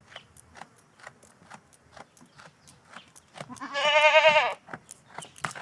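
A single bleat from a farm animal, wavering in pitch and lasting about a second, starting a little past halfway. Faint short clicks and taps sound throughout.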